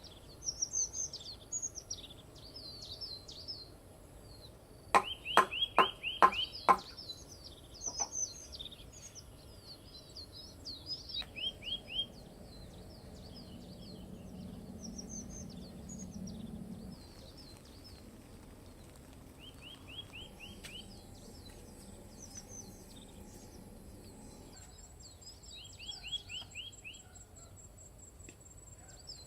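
Forest birds chirping and singing continuously. About five seconds in comes a loud run of five sharp clicks or knocks, and fainter runs of similar clicks follow three more times.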